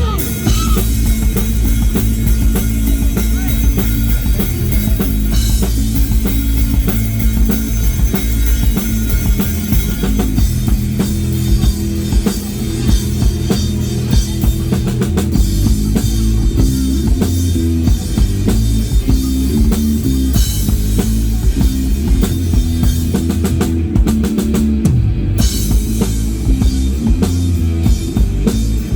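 Rock band playing a sound check: a drum kit with a steady kick-drum beat, with electric guitar.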